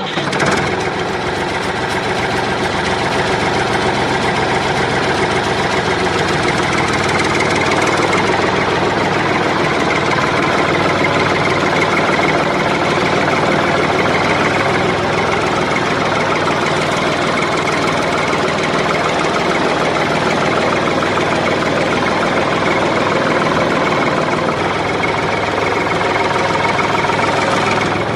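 Small motor of a miniature DIY tractor water pump running steadily, a dense buzzing whir that holds an even pitch and level throughout.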